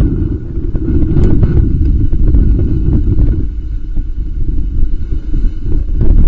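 Strong wind buffeting the nest camera's microphone, a heavy gusting rumble that swells and eases, with a few sharp knocks.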